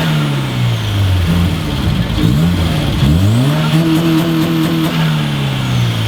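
A car engine revved: the revs fall back from an earlier rev in the first second, then climb sharply about three seconds in, hold for about a second and drop back to idle.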